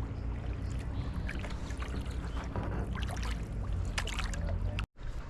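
Water lapping, dripping and splashing lightly around a kayak, with small clicks throughout over a steady low rumble. The sound drops out briefly near the end.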